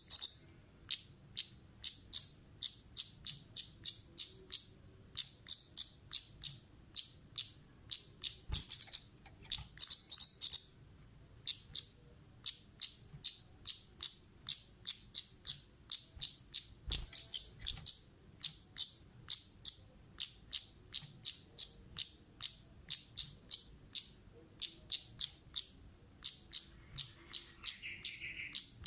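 Kemade bird giving rapid runs of short, sharp, high 'cit' chip calls, several a second in groups of about a second with brief pauses: an excited, aggressive 'gacor' calling used as a lure recording to set other kemade birds calling.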